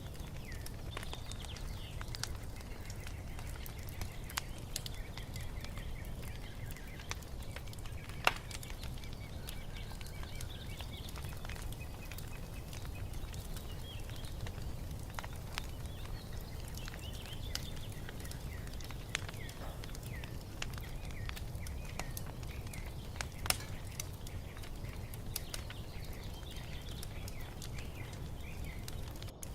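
Wood fire crackling, with scattered sharp pops over a steady low rumble, and a couple of louder pops. Birds chirp softly through it.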